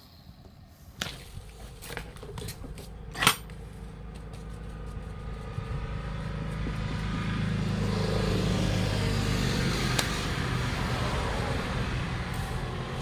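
A few sharp knocks, then a motor running, growing louder over several seconds and easing off slightly near the end.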